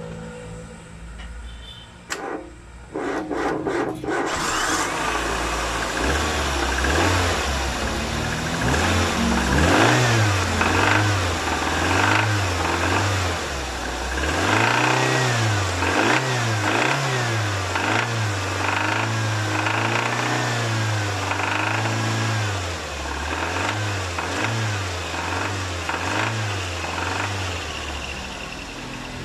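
Nissan CR-series four-cylinder DOHC engine cranked and catching after a few seconds, then revved up and down again and again.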